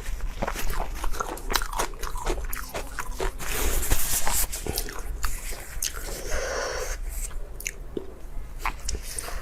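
Close-up eating sounds: biting and chewing with many small wet clicks and crunches, and a louder noisy stretch about four seconds in.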